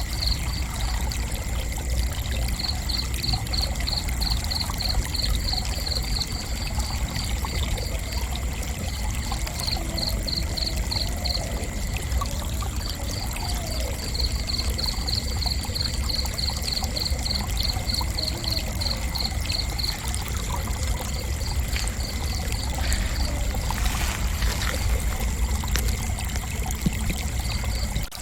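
Crickets chirping in runs of rapid, evenly spaced high chirps, about four a second, broken by short pauses. Beneath them run a steady high insect drone and a constant low rushing noise.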